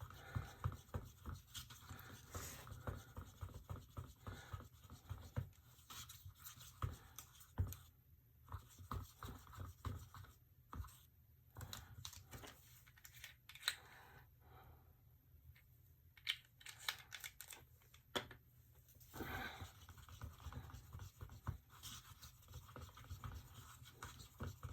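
Faint, irregular small clicks and scratches of hands handling resin bottles and a mixing cup while more colour is added to the epoxy.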